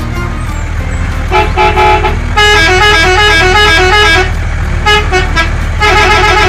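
A vehicle's musical horn plays a quick tune of rapid stepped notes in several bursts, over a steady low engine rumble.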